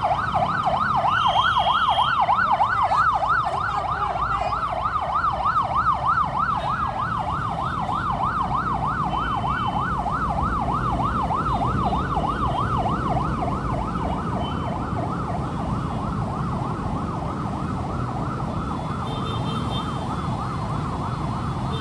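Emergency vehicle siren in a fast yelp, sweeping up and down several times a second. It is loudest in the first half and then fades as it moves away, over a steady low rumble of road traffic.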